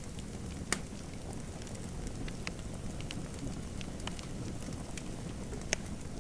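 Fireplace fire crackling: a steady low rumble with scattered sharp pops, two louder ones about a second in and near the end.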